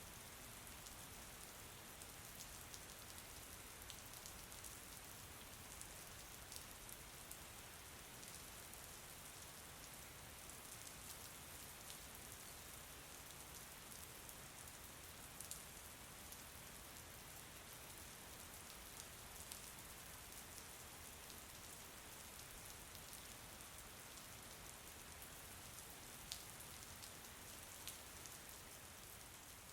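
Soft, steady rain falling, with many fine drop ticks and an occasional louder drip.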